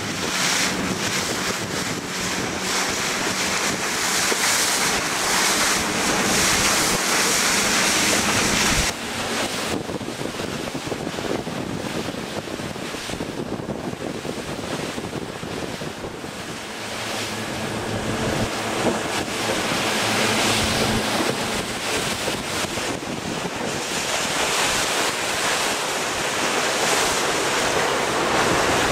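Wind buffeting the microphone over water rushing past a moving tour boat, with a faint low hum under it. The sound drops abruptly about nine seconds in, then builds back up.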